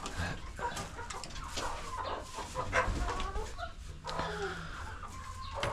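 A flock of hens clucking and calling.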